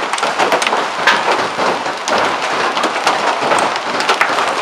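Hail coming down: a steady dense hiss of falling ice and rain, with many sharp clicks of individual hailstones striking surfaces.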